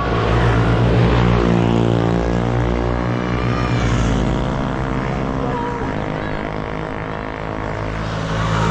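Motorcycle engine running at a steady pitch while riding, with wind rushing past.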